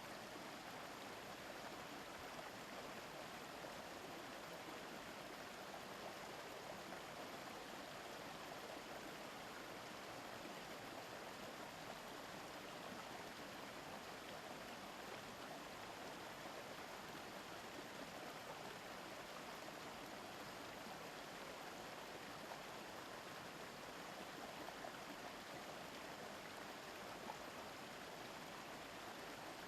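A forest stream babbling steadily over rocks, an even rush of flowing water.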